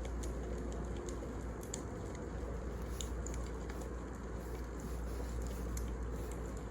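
Wood fire burning, with irregular sharp crackles and pops, a few a second, over a steady low rumble.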